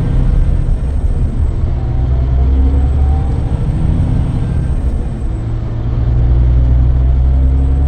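Scania K440EB coach's engine pulling under load with a deep drone, its pitch climbing. About five seconds in it briefly drops away for a gear change in the Opticruise automated gearbox, then pulls again.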